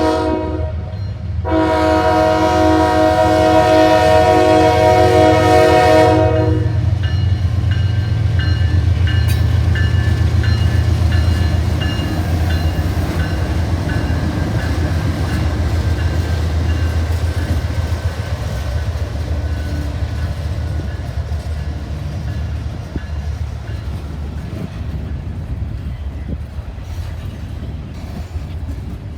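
Train horn sounding a chord that breaks off for a moment just after the start, then holds for about five more seconds before stopping. The low running noise of the passing train follows and slowly fades.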